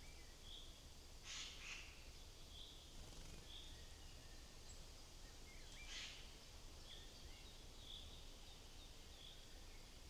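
Faint wild bird calls: short high chirps repeating roughly once a second, with a few small rising notes, broken twice by brief rustling bursts, over a low steady background rumble.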